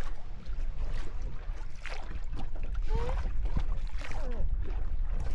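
Boat moving on the water: a steady low rumble with water noise, and short snatches of voices about three and four seconds in.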